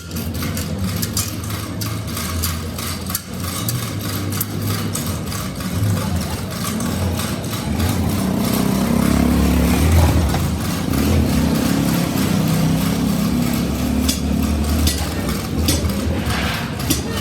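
Machinery running steadily with a low hum that swells in the middle, while many short clicks and knocks sound over it.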